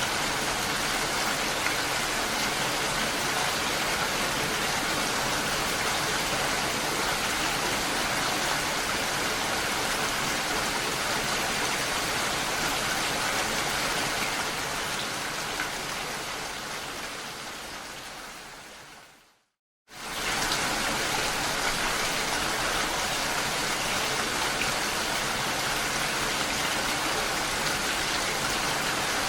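Steady rain falling. It fades out about two-thirds of the way through to a brief moment of silence, then comes back suddenly at full level.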